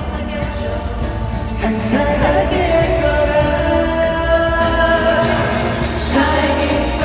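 K-pop song performed live, a male voice singing over the band backing, holding one long note from about two seconds in until near the end.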